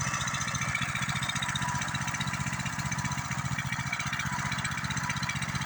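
Coleman CT200U-EX minibike's small single-cylinder engine idling steadily, an even rapid beat that does not change.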